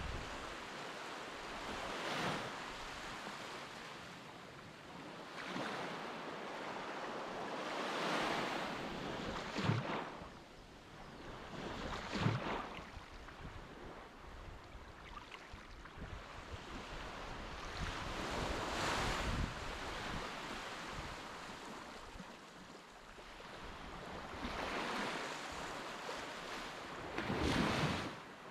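Sea waves washing and breaking, surging irregularly every few seconds, with wind buffeting the microphone.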